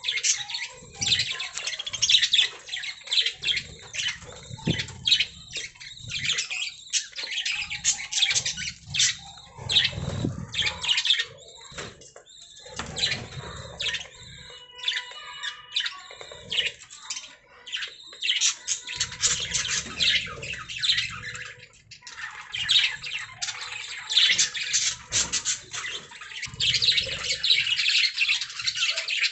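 Budgerigars chattering and warbling, with a dense run of quick high chirps and squawks broken by short pauses.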